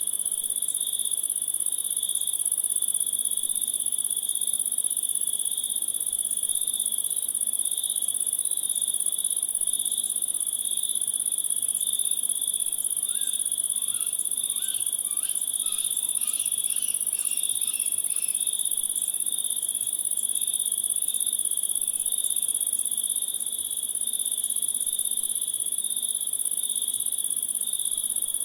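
A steady night-time chorus of crickets or similar insects, with a continuous high-pitched trill and a second, lower pulsing trill. A few faint, quick chirps join in for several seconds midway.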